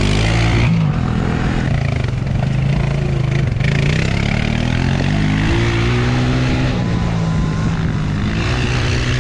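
Small off-road engine being ridden hard around a dirt track, its pitch rising and falling with the throttle and climbing steeply about halfway through, over steady wind and rolling noise.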